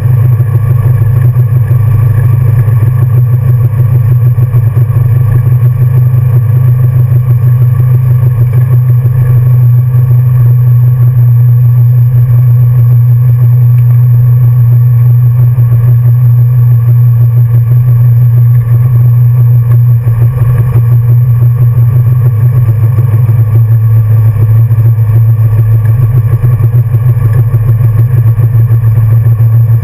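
1966 Ford Mustang's 347 stroker small-block V8 idling loudly, heard from inside the cabin. Its steady idle drops a little in pitch a bit past the middle.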